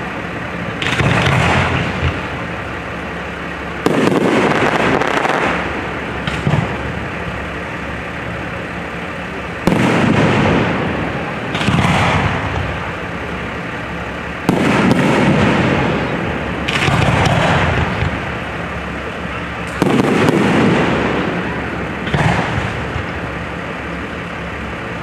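Fireworks display: aerial shells bursting every two to three seconds, each sudden bang trailing off over a second or two.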